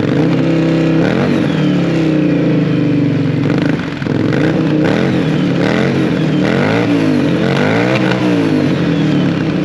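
CFMoto ZForce 800's V-twin engine running loud through a newly fitted RJWC Mud Edition aftermarket exhaust. The throttle is blipped several times, each rev rising and falling in pitch, with most of the revving in the second half.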